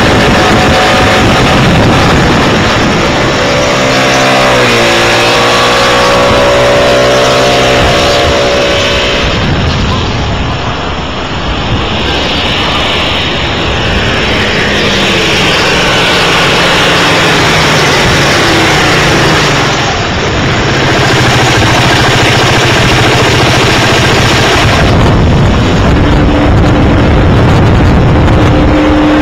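Piaggio X9 125cc scooter's single-cylinder four-stroke engine making fly-bys: its note slides down and back up in pitch as it passes, over a loud, steady rushing noise.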